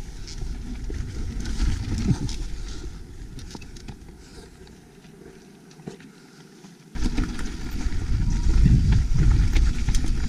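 Mountain bike descending a rocky trail: wind rumble on the microphone with the clatter of the bike and tyres over rock. It eases off for a few seconds midway, then comes back suddenly louder about seven seconds in.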